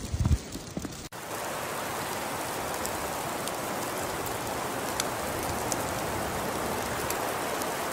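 A few low thumps, then a sudden cut to steady storm noise: an even hiss like falling precipitation, with scattered faint ticks.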